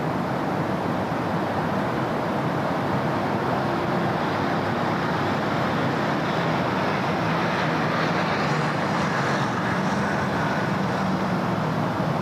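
Steady city road traffic: a continuous wash of passing cars and engines, with one vehicle's hum swelling and then fading in the second half.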